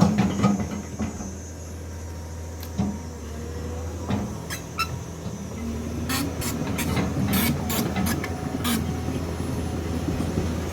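Excavator's diesel engine running steadily, with scattered sharp knocks and clanks that come thicker in the second half.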